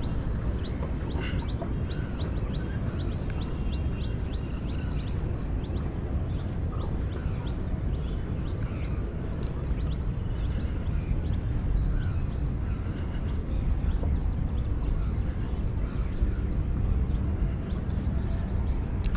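Birds calling over a steady low rumble, with short high chirps and ticks most frequent in the first few seconds.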